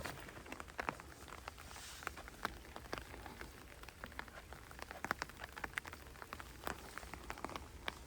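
Raindrops ticking irregularly on a nearby surface, several sharp ticks a second, over a low steady rumble.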